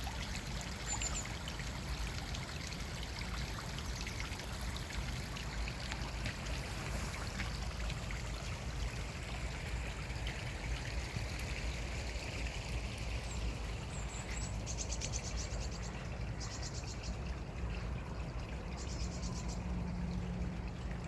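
Stream water running, a steady rushing flow. A few short high chirps come through, and in the second half a fast, high, pulsing trill sounds three times.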